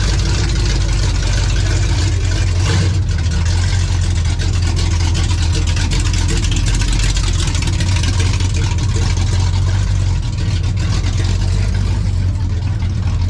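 Car engine idling with a steady, loud low rumble, amid slow-moving traffic.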